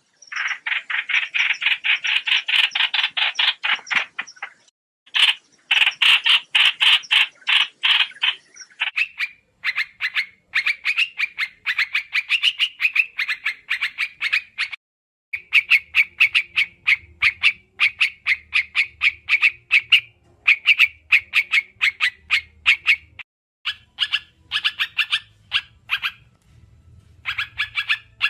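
Rapid chattering calls of the bird known in Vietnamese as trao trảo: fast runs of short notes repeated in long series with brief breaks. This is a decoy call used to lure the birds for trapping.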